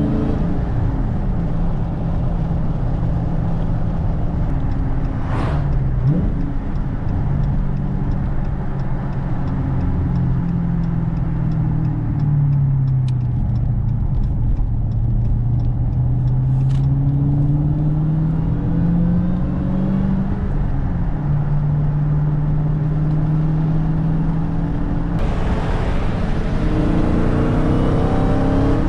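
Supercharged 6.2-litre V8 of a Dodge Challenger SRT Hellcat with its stock intake, heard from inside the cabin while driving. The engine note falls and rises through the gears with a few steady stretches, then grows louder and climbs in pitch under hard acceleration near the end.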